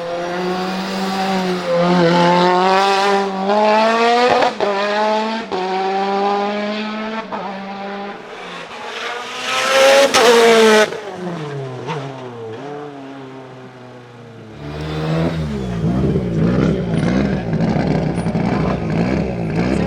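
Mitsubishi Lancer Evolution IX hillclimb car's turbocharged 2.3-litre 4G63 stroker four-cylinder accelerating hard, revving up through several gears with short breaks at each shift. It is loudest about ten seconds in, then falls in pitch as the car passes, and the engine is heard again from about two-thirds through.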